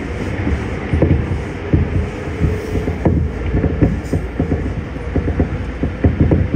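Running sound of a Keikyu 1500 series field-chopper-controlled commuter train heard from inside the car at speed in a tunnel: a steady heavy rumble with frequent irregular clacks from the wheels and rails.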